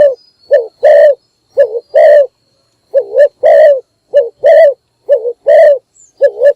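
Spotted dove cooing: a quick short note or two, then a longer coo, repeated about once a second. This is a loud, close call used as a decoy to lure wild doves.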